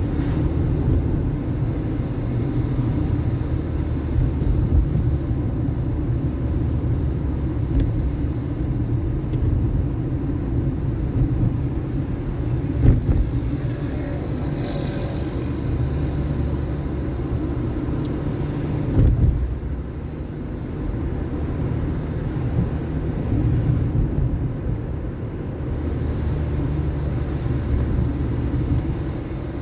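Car driving on city streets: a steady low rumble of engine and road noise, with a sharp knock about 13 seconds in and a short thump around 19 seconds.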